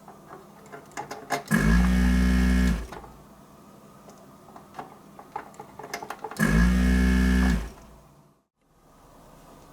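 A small electric motor runs twice, each time for just over a second with a steady hum, starting and stopping sharply; a run of small clicks and taps comes before each run.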